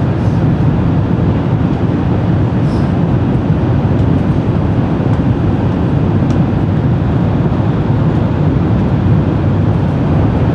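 Steady low rumble inside an N700A Shinkansen carriage running at speed.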